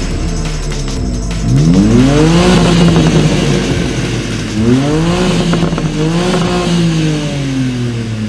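BMW S58 twin-turbo inline-six revved twice. The pitch climbs fast about a second and a half in and holds. It drops, rises again just past the middle, holds, then falls away slowly.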